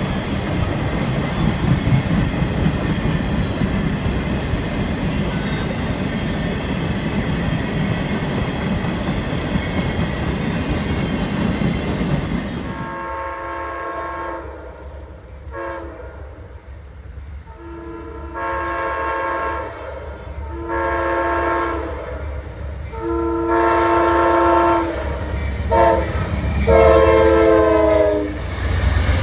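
Freight train of boxcars rolling past with a steady rumble and wheel clatter. About 13 seconds in it gives way to an approaching Amtrak passenger train sounding its horn, a chord in a series of long and short blasts that grow louder as it nears.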